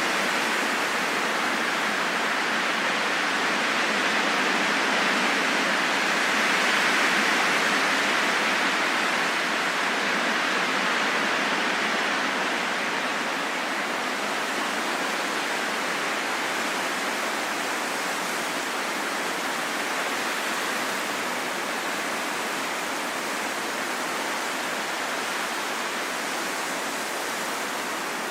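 Steady rushing wind, swelling slightly about a quarter of the way in and slowly easing off after.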